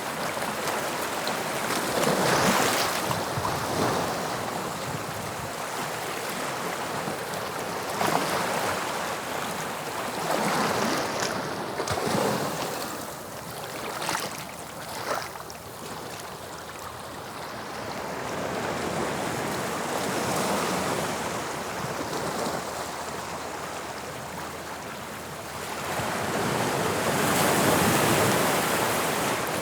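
Sea waves breaking and washing on the shore, a steady surf that swells and ebbs, with several louder breakers and a long surge near the end.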